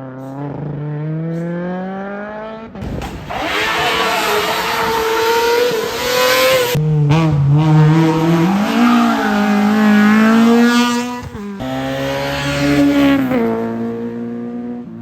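Race car engine under hard acceleration. The engine note climbs in pitch in each gear, with short breaks at the gear changes. It gets much louder about three seconds in and dies away near the end.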